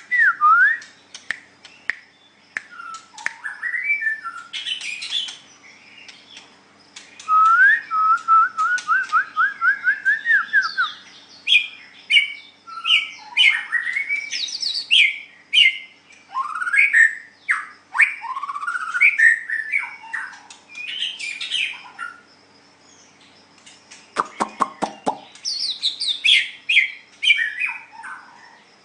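White-rumped shama singing a long, varied song of clear whistles, fast chattering runs and a quick series of rising notes, with a short harsh buzz near the end.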